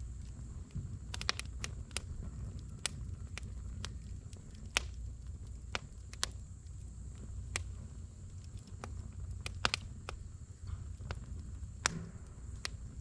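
Firewood burning in a fire bowl: irregular sharp pops and snaps of crackling wood over a steady low rumble of flame.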